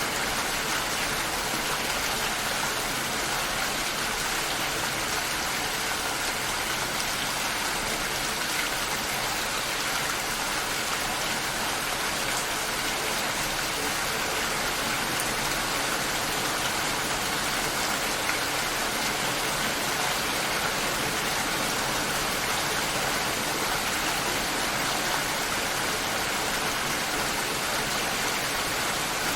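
Steady rain shower falling outside a window, a dense, even hiss of drops.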